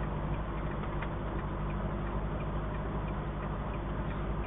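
A vehicle engine running steadily, with a fast, even ticking through it.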